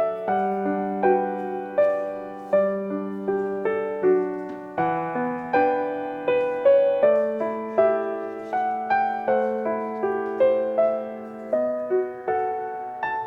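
Background music: a slow, gentle solo piano piece, notes struck at an even pace and left to ring.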